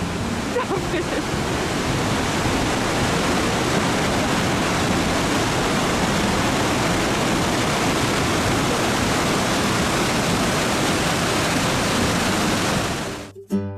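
Sunwapta Falls, a waterfall on the Sunwapta River, rushing steadily and loudly; it cuts off abruptly near the end.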